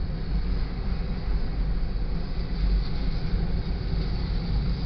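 Union Pacific sand train's freight cars rolling past over a grade crossing: a steady rumble of steel wheels on rail.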